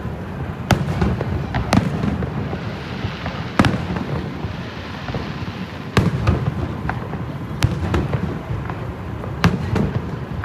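Aerial fireworks going off: six sharp booming bursts a second or two apart, with a crackling hiss from the shells in the middle, over a steady low rumble.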